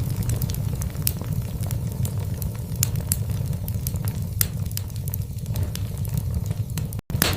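Wood fire burning in a fireplace: a steady low rumble with irregular sharp crackles and pops from the logs. The sound cuts out for an instant near the end, a splice in the looped recording.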